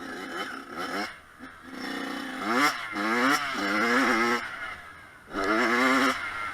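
Kawasaki KX100 two-stroke single-cylinder motocross engine revving hard in repeated quick rising surges, with two short lulls between bursts.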